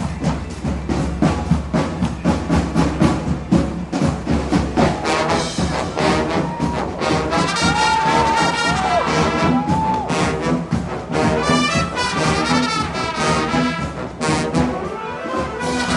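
High school marching band playing live: drums drive the first few seconds, then brass (trumpets and trombones) take over with held chords and a few short sliding notes in the middle.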